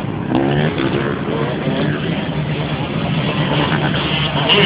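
Dirt bike engines running, with people's voices over them.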